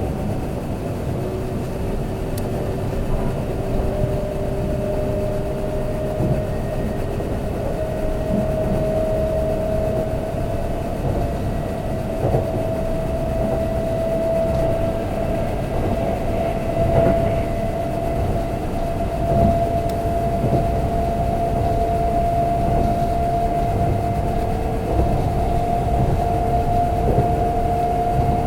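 Kintetsu limited express electric train running, heard from inside the cabin: steady rumble of wheels on rail with the motor whine climbing slowly in pitch as the train gathers speed, and an occasional knock from the track.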